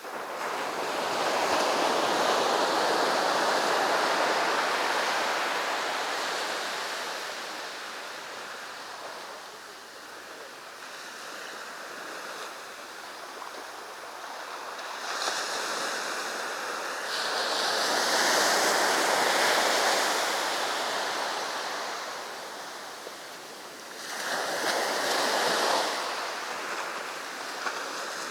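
Sea waves breaking on a beach: the surf swells and fades in three big surges, early, around the middle and near the end.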